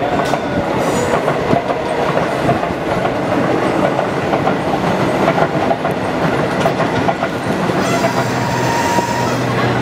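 Train running on rails, a steady rumble with the clatter of wheels over the track. A low steady hum comes in near the end.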